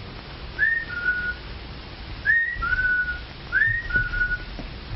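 Someone whistles a two-note call three times, each a quick rising slide followed by a lower, held note, like a whistle to call someone over. It sits over the steady hiss of an old film soundtrack.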